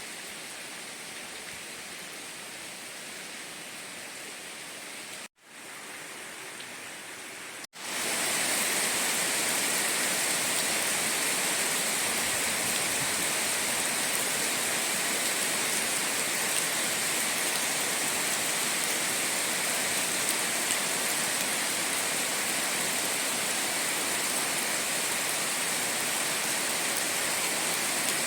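Steady rain, an even hiss with no distinct drops standing out. It cuts out for an instant twice, about five and eight seconds in, then resumes noticeably louder.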